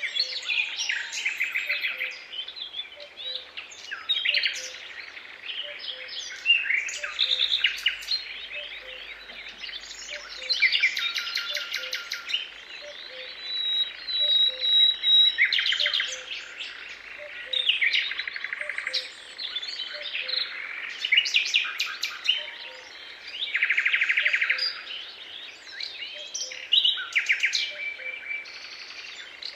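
Several songbirds singing at once, with overlapping chirps, rapid trills and whistled phrases. About halfway through, one high whistle is held for about two seconds. Under the birds, a faint low note repeats steadily.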